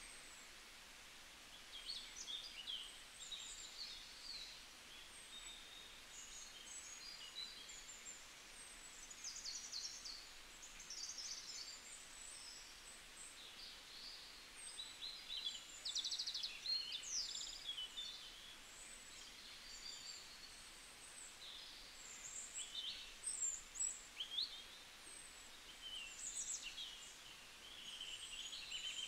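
Small birds chirping and singing in short, high calls, coming in clusters and busiest around the middle and near the end, over a faint hiss.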